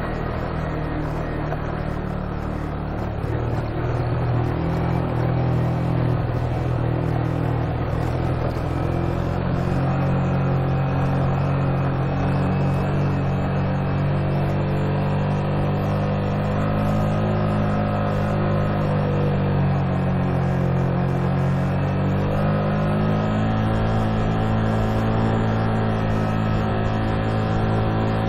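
Motorcycle engine running steadily under way, its note shifting gently and stepping up in pitch about three-quarters of the way through.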